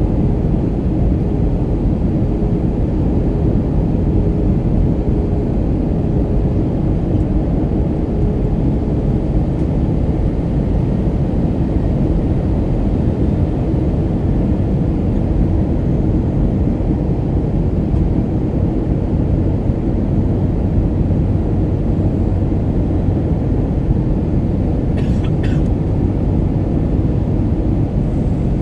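Steady cabin noise inside an Airbus A319-132 on approach: the low drone of its IAE V2500 engines and the airflow over the fuselage, with a faint steady hum. A couple of brief faint clicks near the end.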